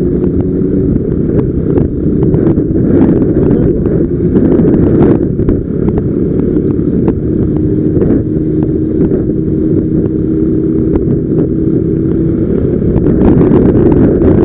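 Heavy wind rumble on a motorcycle-mounted camera's microphone while riding, with the bike's engine humming steadily underneath. It gets louder near the end.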